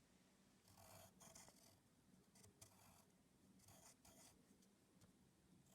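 Very faint scratching strokes of drawing, a few short strokes about a second apart, over near silence.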